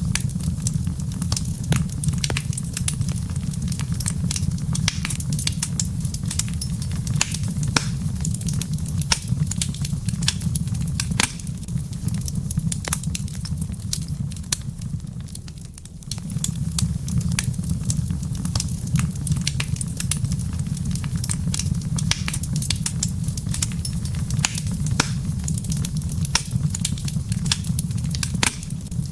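Wood fire in a fireplace crackling, with dense snaps and pops over a steady low rumble. The rumble fades away about 13 seconds in and comes back suddenly about 16 seconds in.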